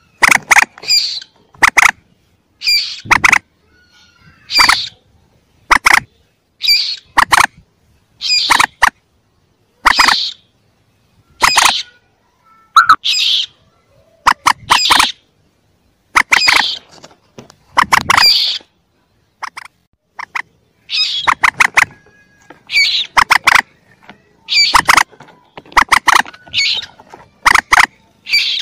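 Young mandar (rail) calls from a lure recording: short, sharp call bursts, often two to four quick notes together, repeating about every second or two.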